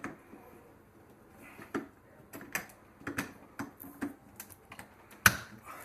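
Scattered light clicks and knocks of refrigerator parts being handled during reassembly, with one sharper knock about five seconds in.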